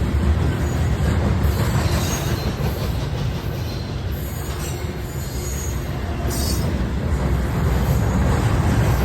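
A train rolling close by: a loud, steady rumble of steel wheels on rail, with short high-pitched squeals of the wheels now and then, the clearest about six seconds in.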